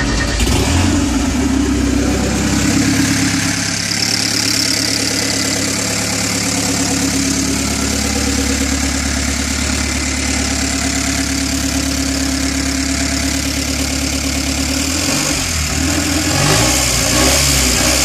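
Porsche 944 race car's four-cylinder engine running steadily at idle just after firing up, with a rise in revs near the end.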